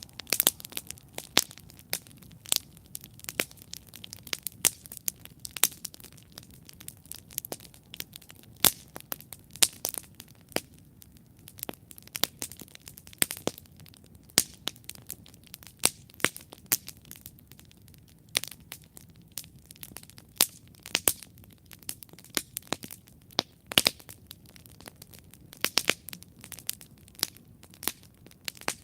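Wood campfire burning and crackling: frequent sharp irregular pops and snaps over a low steady rumble of flame.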